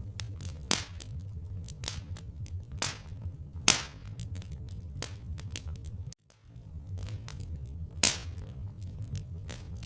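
Log fire crackling: irregular sharp pops and snaps, a few of them much louder, over a low steady rumble. The sound cuts out for a moment a little after six seconds.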